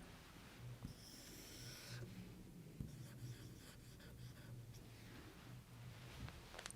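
Near silence: a faint steady low hum, with a brief faint scratching about a second in.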